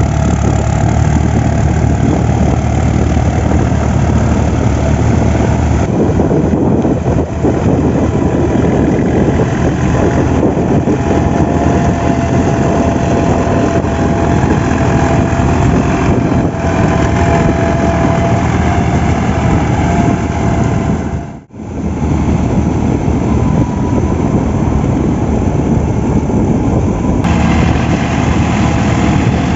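Tractor diesel engine running steadily under load while pulling a rotavator through a puddled paddy field, with a brief dropout about two-thirds of the way through.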